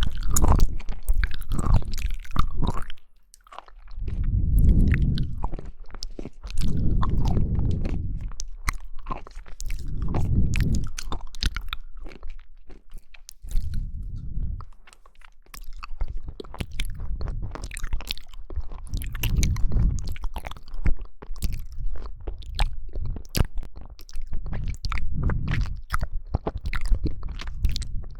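A person chewing and biting jelly: many sharp wet clicks over repeated low, muffled chewing swells, with a few short pauses.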